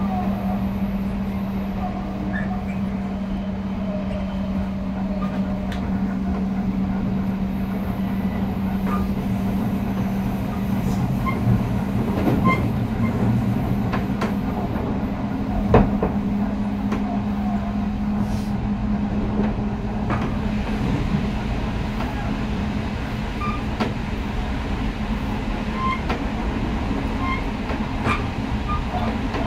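Odakyu electric train running, heard from inside the passenger car: a steady low hum over rolling rumble, with scattered clicks from the wheels and one sharp knock about sixteen seconds in.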